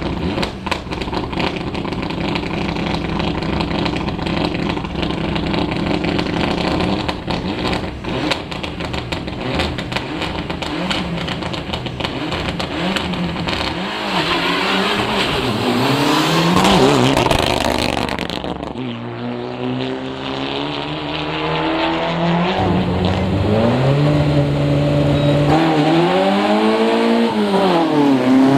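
Rally car engines on a stage. A steady engine note gives way to revving, with the pitch swinging up and down as the car accelerates and lifts off. The loudest part comes near the end, as a car climbs hard through the gears and passes close.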